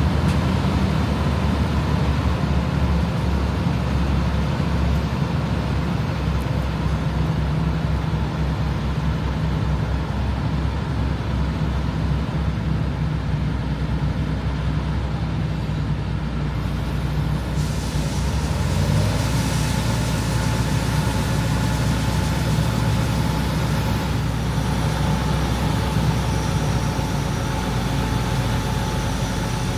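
John Deere 8820 Titan II combine's diesel engine and threshing machinery running steadily at a constant pitch. A little past halfway, the sound turns brighter and a short rising tone sweeps up.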